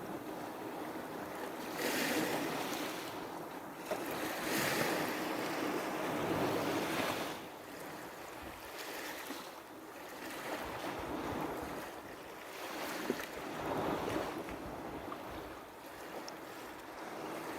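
Small sea waves splashing and washing onto a beach, the rush of water swelling and fading every few seconds, with some wind on the microphone.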